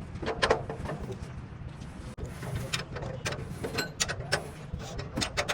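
Workshop noise: irregular sharp knocks and clicks over a steady low hum.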